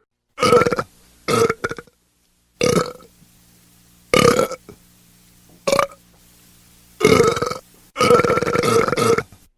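A person burping again and again: about seven separate burps, mostly short, with the last two longer and drawn out.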